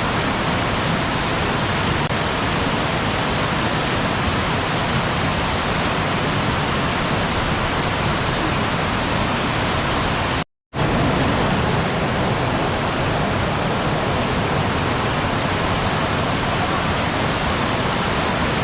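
Waterfall: a steady rush of falling water, cut off by a brief dropout to silence about ten and a half seconds in before it resumes unchanged.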